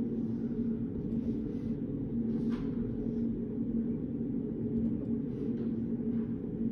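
Steady low hum of a study room's ambience, with faint light rustles and soft taps of paper and writing; one small tap about two and a half seconds in.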